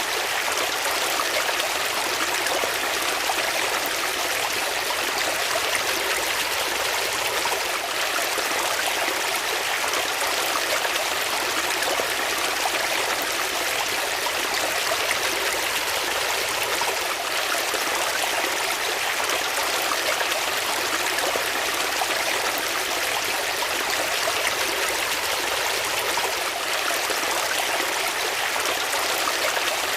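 Flowing water running steadily, a continuous even rush with no breaks.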